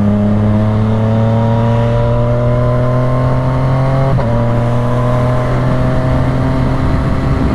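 Yamaha motorcycle engine pulling steadily under acceleration, its pitch climbing slowly, with a quick upshift about four seconds in before it climbs again. Wind noise runs underneath.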